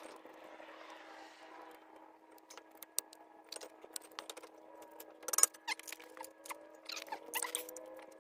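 Scattered metallic clicks and clinks of tools and brake parts being handled while the brake caliper is fitted back over the rotor. The loudest clink comes about halfway through, and a faint steady hum runs underneath.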